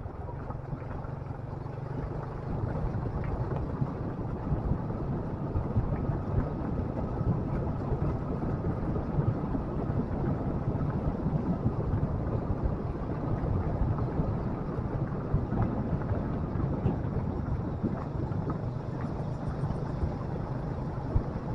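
Motorcycle engine running steadily at a constant low hum, under continuous wind and road noise from riding.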